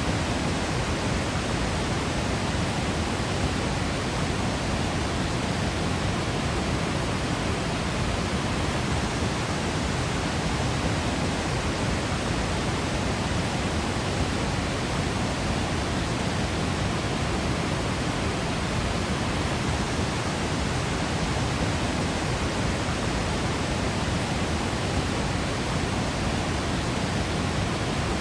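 Waterfall crashing, a steady, unbroken rush of falling water that is even across low and high pitches.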